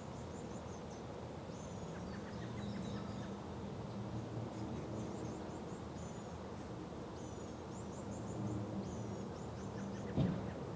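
Faint songbird song, short high-pitched phrases repeated every second or two, over a steady low background rumble. A single sharp knock near the end.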